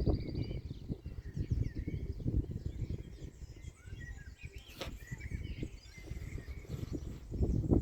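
Wind gusting on the microphone with a low rumble that is strongest near the start and the end, while birds chirp and sing in quick short calls over it. A single sharp click about five seconds in.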